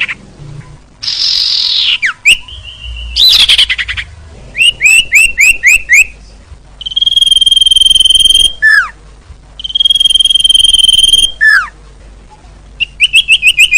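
A bird-lure recording of small songbird calls: harsh downward-sweeping buzzes, quick runs of short chirps at about four or five a second, and two long steady whistles of about a second and a half each, broken by downward slurs.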